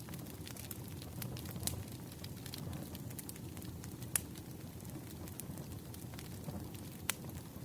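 Wood fire crackling: a steady low rumble of burning logs with scattered sharp pops and snaps, two louder ones about four and seven seconds in.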